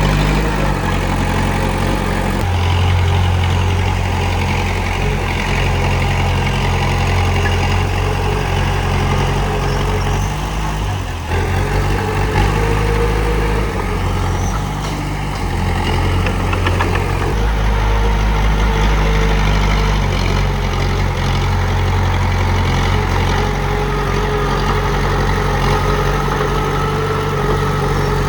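Komatsu D31P bulldozer's diesel engine running steadily, its low rumble shifting in pitch several times as the load changes and easing briefly about eleven seconds in. A faint whine rises and falls above it.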